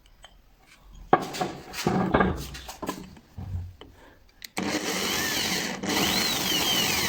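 Clattering and knocking of tools being handled, then about four and a half seconds in an electric hand drill starts abruptly and runs steadily, boring a hole in the starter motor's brush holder cup, with a faint wavering high whine from the bit.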